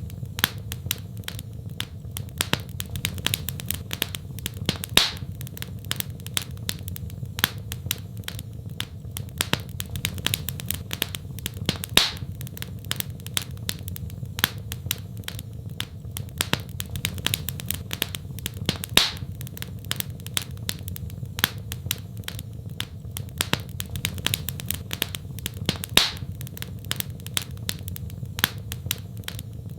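Wood fire crackling, with a constant patter of small sharp pops and a louder snap about every seven seconds, over a low steady rumble.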